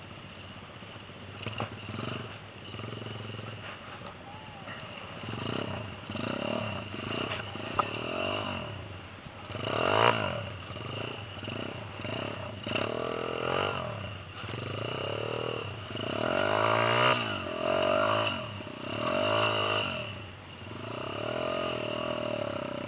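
Small pit bike engine revving again and again, its pitch rising and falling between spells of lower, uneven running.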